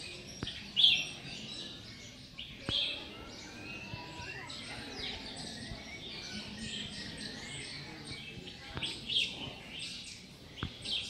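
Many small birds chirping together in a dense, continuous chatter, with louder bursts of chirps about a second in, near three seconds and around nine seconds.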